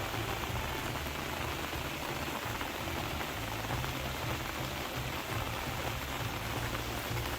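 Steady rain falling, with a low, shifting rumble underneath.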